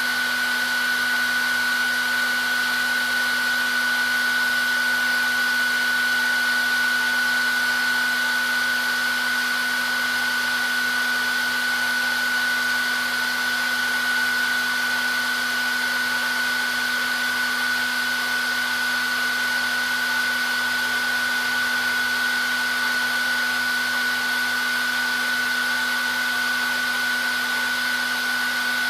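Handheld hair dryer running steadily: an even rush of air with a constant high whine from the motor and fan and a lower hum beneath.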